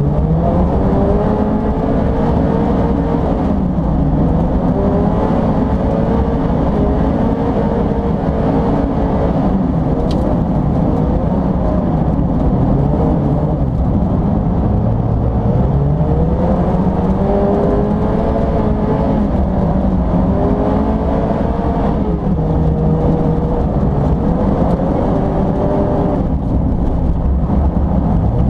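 Mazda MX-5 race car's engine heard from inside the cabin, loud and steady, its pitch rising under acceleration and dropping back again and again through a fast lap.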